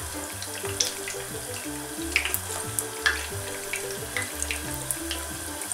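Potato balls frying in hot seed oil in a pan: a steady sizzle with scattered sharp crackles. Background music with a repeating bass line plays underneath.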